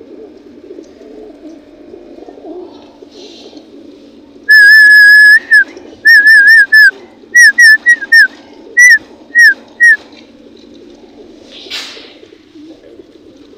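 Pigeons cooing steadily in a loft, and about four seconds in a loud whistle: one long held note, then a string of short warbling notes in quick groups for about five seconds. A brief rustle near the end.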